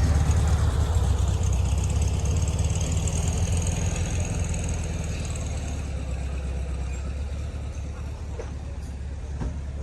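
A car engine running steadily, gradually getting quieter.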